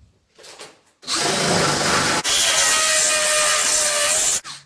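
Power drill with a spot weld drill bit boring through the steel spot welds of a car's seat pan, the bit cutting well. It runs for about three and a half seconds with a momentary break partway, preceded by a few light knocks.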